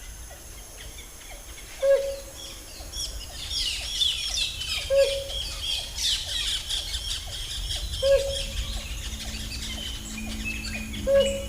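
Rainforest birds calling: a dense chorus of high chirps and whistles, with one short low hooting note repeated about every three seconds, the loudest sound. A low steady hum comes in near the end.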